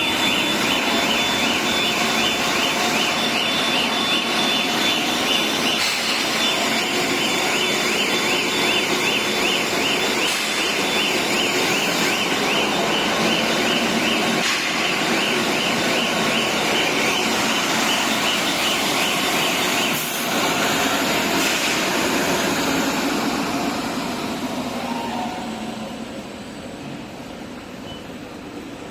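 Aerosol filling line machinery running with a steady noise, under a rapidly warbling electronic alarm. The alarm stops about two-thirds of the way in, and the machine noise dies down near the end.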